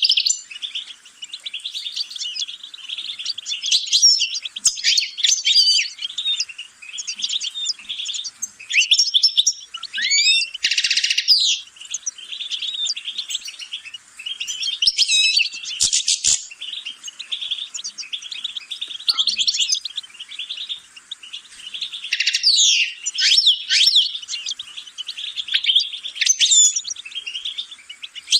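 A songbird singing a long, fast, twittering song of chirps and trills, in phrases with short pauses, with one harsh buzzy note about eleven seconds in.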